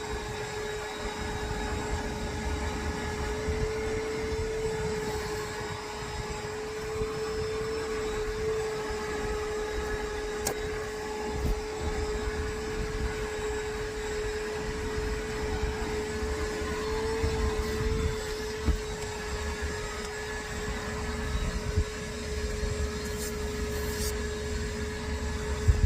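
Vacuum cleaner running steadily with a constant whine, with a few brief clicks of the nozzle against things.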